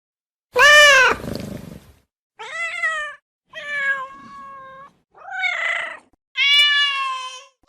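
A domestic cat meowing five times in a row, short calls with brief gaps between them; the first is the loudest and ends in a rough, raspy tail.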